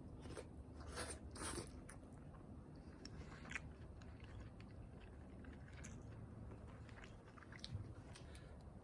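A person biting into and chewing grilled crab, with a few loud crunching bites in the first two seconds, then quieter chewing and scattered small clicks.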